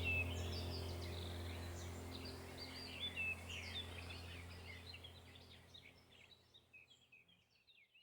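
Background recording of many small birds chirping and twittering over a steady low drone, the whole bed fading out until it goes silent at the end.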